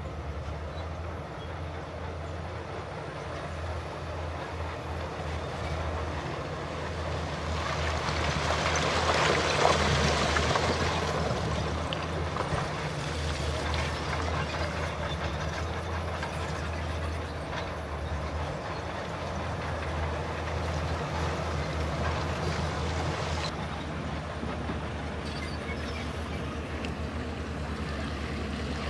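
Heavy earthmoving machinery running with a steady low engine hum, with a louder rush of noise from about eight to eleven seconds in.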